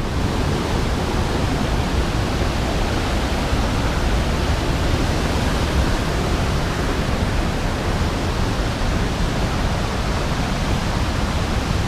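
Waterfall rushing close by: a steady, unbroken noise of falling water.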